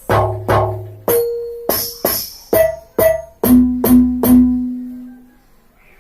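Electronic percussion music: a run of about ten struck hits with pitched tones. The last few hits ring on one low note and fade out shortly before the end.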